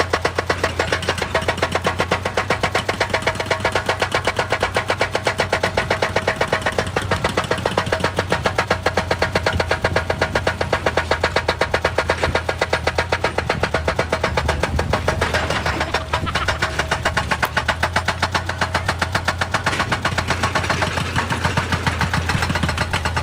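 Excavator running with a fast, even knocking of about six beats a second over a steady low engine hum.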